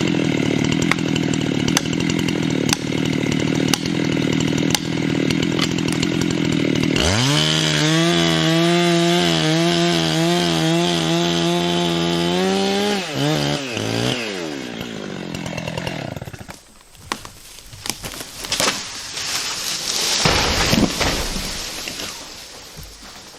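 Husqvarna 385 XP chainsaw cutting under load through the felling cut, then revving higher about seven seconds in, dropping back and stopping about sixteen seconds in. Then the black cherry tree falls: irregular cracking and snapping, then a heavy thud as it hits the ground about twenty seconds in.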